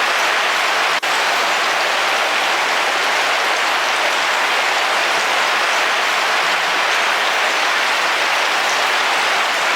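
Heavy rain falling steadily on a car roof, an even, dense patter of drops. There is a momentary drop in level about a second in.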